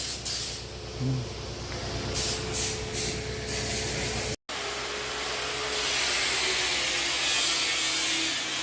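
Angle grinder working dried plaster off old wooden hanok rafters: a steady motor whine under a hissing scrape. It breaks off for an instant about four seconds in.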